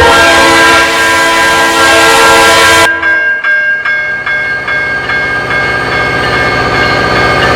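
A train horn blows one long loud blast for about three seconds, then cuts off sharply. Under it and after it, railroad crossing bells keep ringing at an even rapid pace over the rumble of the passing train.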